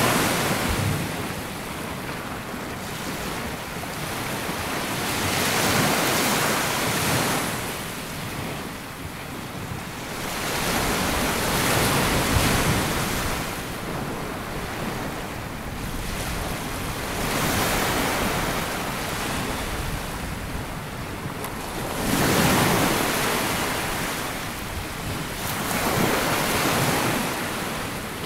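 Small sea waves breaking and washing up a sandy beach, the surf swelling and fading every four to six seconds, with some wind on the microphone.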